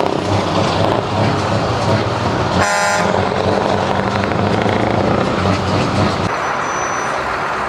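Heavy vehicle engines running steadily, with one short horn blast about two and a half seconds in.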